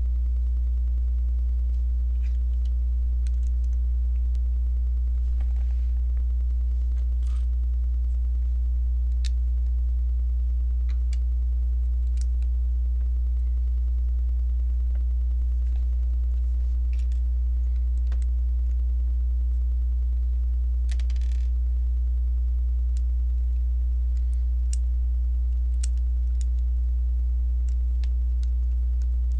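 A steady low hum, the loudest sound throughout, with faint scattered clicks and a brief rustle from Lego bricks being handled and pressed together.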